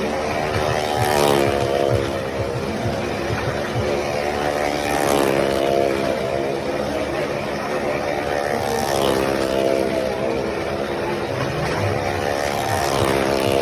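Motorcycle engine running hard as the bike circles the wall of a well of death, its note swelling and falling about every four seconds with each lap.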